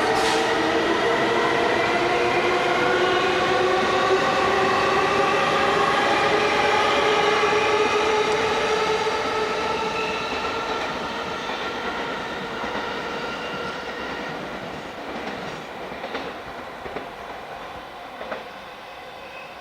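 Electric commuter train pulling away and accelerating: its inverter-driven traction motors give a whine of several tones climbing slowly in pitch, which fades away over the second half as the train leaves, with a few faint clicks of the wheels near the end.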